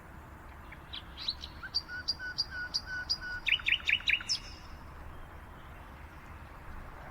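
Songbirds chirping: a quick run of short, repeated high notes with quick down-slurred calls, lasting about three seconds and stopping a little before halfway, followed by faint steady background hiss.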